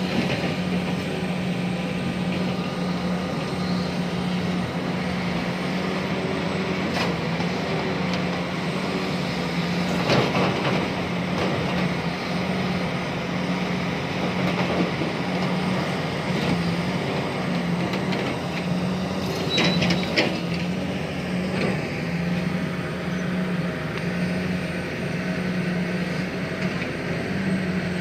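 Large excavator's diesel engine running steadily under load, heard from the operator's cab, with a few sharp knocks and clatters, around 7, 10 and 20 seconds in.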